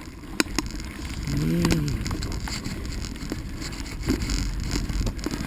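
Bicycle rolling over a dirt trail: a steady low tyre rumble with scattered sharp knocks and rattles, plus some wind on the microphone. A short pitched sound rises and falls about a second and a half in.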